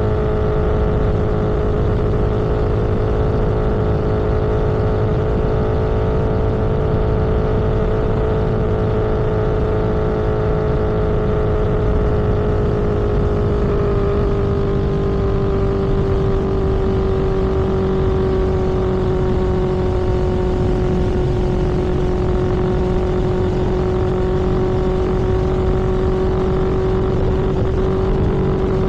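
A road vehicle cruising at speed: a steady engine or drivetrain hum over a rush of wind and road noise. The hum's pitch eases down a little about halfway through, as the vehicle slows slightly.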